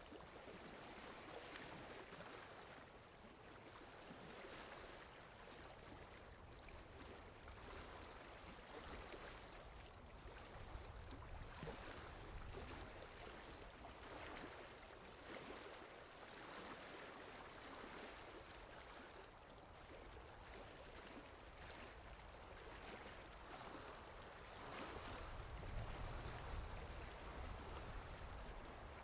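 Steady soft rain, an even hiss of falling drops, with a low rumble that swells up near the end.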